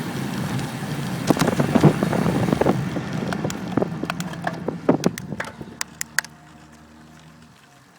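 Wind and road rush from a bicycle descent, dying away as the bike slows, with scattered sharp clicks and rattles. Near the end comes the low steady hum of a truck's engine.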